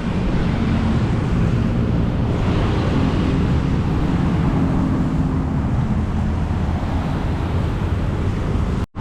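Steady low rumble of road traffic with wind noise on the microphone. It cuts out for a moment just before the end.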